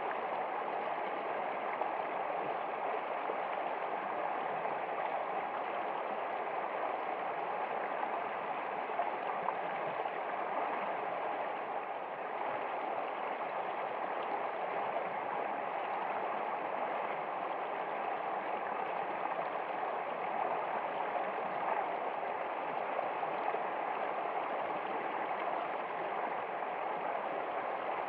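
Water in a stream running steadily, an even flowing sound with no pauses or changes.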